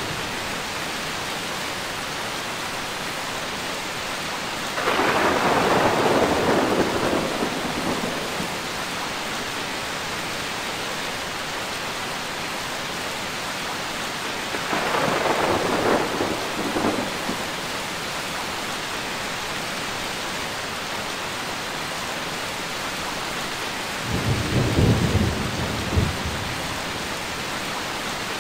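Steady rain hissing, with three rolls of thunder: the loudest about five seconds in, lasting about three seconds, another around fifteen seconds in, and a deeper, lower rumble near the end.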